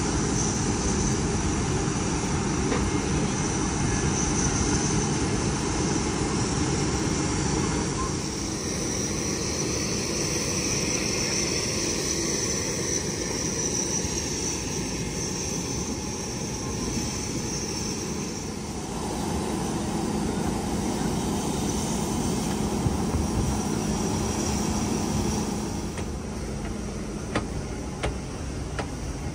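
Steady rumble and air hiss inside a parked airliner's cabin, with a low hum underneath, and a few light clicks near the end.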